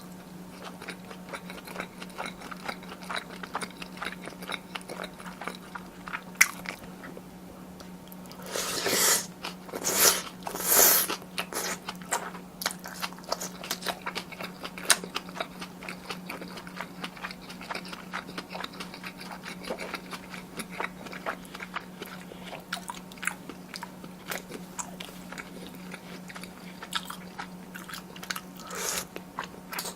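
Close-miked chewing and biting of spicy tteokbokki, with many small wet mouth clicks and a few louder bursts about nine to eleven seconds in and again near the end. A steady low hum runs underneath.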